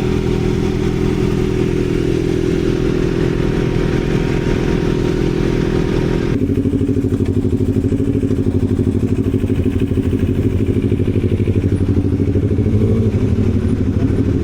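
Kawasaki ZX-6R inline-four motorcycle engine running. About six seconds in, the hiss above it drops away and the engine settles to a lower, evenly pulsing note.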